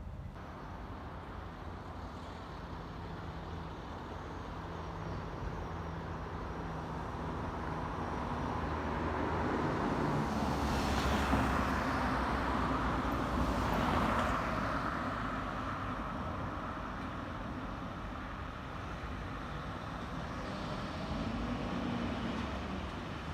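Road traffic: a motor vehicle passes close, growing louder to a peak about halfway through and then fading, over a steady low engine hum.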